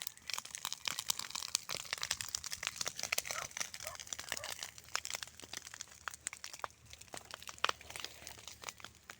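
Dense, irregular crackling and crunching from burnt fire debris, many small clicks close together, thinning out in the last few seconds.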